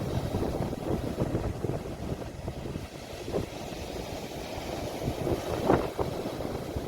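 Sea waves washing at the shore, with wind rumbling and buffeting on a phone's microphone; a few brief louder gusts or swells near the end.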